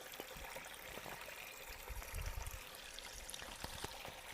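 Faint trickling of spring water, with a few light ticks and a brief low rumble about two seconds in.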